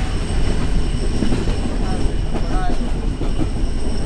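Steady running rumble of the Tezgam Express passenger train at speed, heard from inside a coach: wheels rolling on the rails and the coach rattling.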